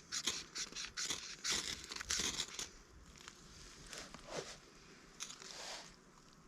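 Crisp crinkling and scraping noises, a quick run of them over the first couple of seconds and then fainter, sparser ones: dry tinder and fire-lighting gear being handled to start a campfire.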